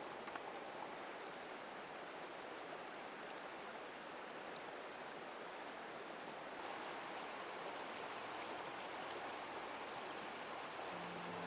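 A river flowing steadily: an even rush of running water, with a couple of faint clicks right at the start. Acoustic guitar music comes in at the very end.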